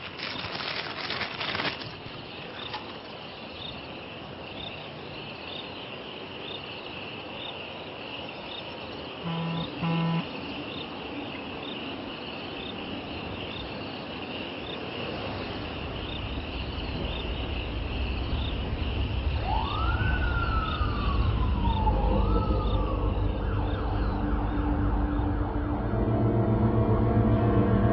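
Night ambience of crickets chirping steadily, with two short low tones near the middle. About halfway through a low rumble swells. Two rising-and-falling wailing glides follow, then sustained tones like an ominous music drone build toward the end.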